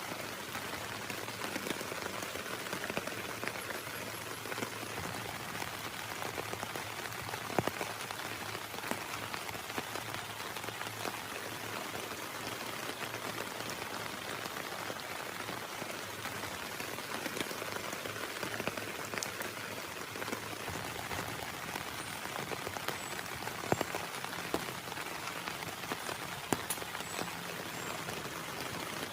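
Heavy rain falling steadily, a dense even hiss with occasional sharper taps of single drops landing close by.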